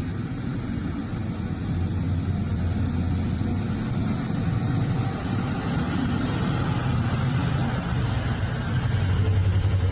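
Mining truck's diesel engine running with a steady low rumble and a faint high whine that slowly falls in pitch, getting a little louder near the end.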